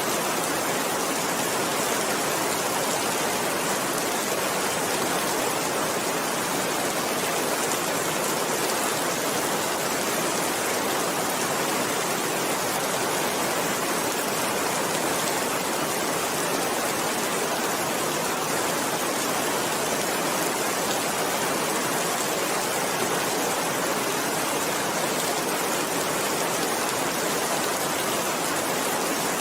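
Rain falling steadily, a constant even hiss without pauses or single loud hits.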